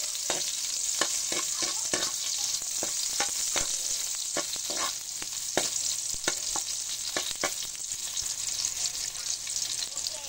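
Chopped garlic and red onion sizzling in hot oil as they are sautéed toward golden brown, with a metal spatula scraping and clacking against the pan about once or twice a second. The stirring thins out about three-quarters of the way through while the steady sizzle goes on.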